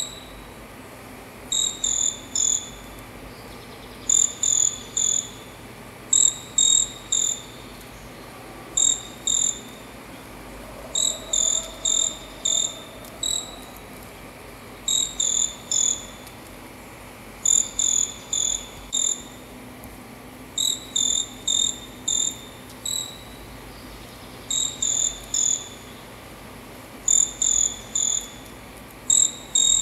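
Short-tailed pygmy-tyrant (caçula) calling: short, high chirps in quick groups of two to five, a group every second or two.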